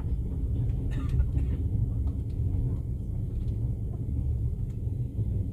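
Passenger train running, a steady low rumble heard from inside the carriage, with a few faint ticks about a second in.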